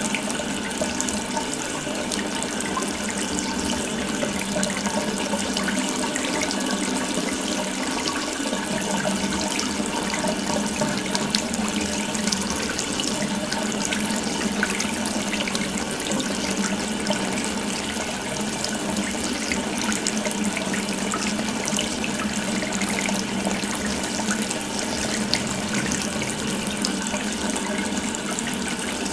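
Water tap running in a steady continuous stream, splashing evenly with no breaks.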